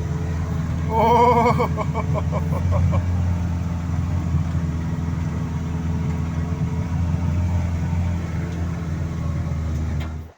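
Toyota 1NZ-FE 1.5-litre four-cylinder engine of a tracked-style all-terrain vehicle pulling steadily under load during a skid-steer turn with one side braked, a continuous drone heard from inside the cab. A brief wavering higher-pitched sound rises over it about a second in.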